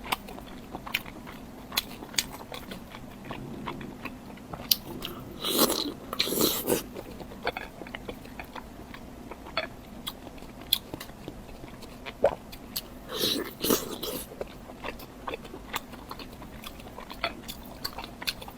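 Close-miked eating: a person biting and chewing food, with many small sharp mouth clicks and a few longer, louder bursts of chewing, about a third of the way in and again past the middle.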